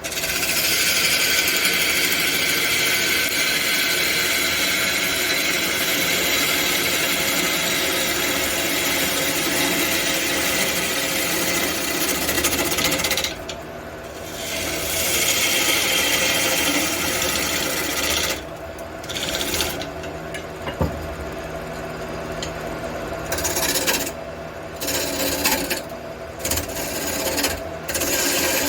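Wood lathe motor humming steadily while a turning tool cuts into a large aromatic red cedar blank, making a loud hissing scrape. The cutting stops briefly about halfway through, then comes and goes in shorter passes near the end as the lathe keeps running.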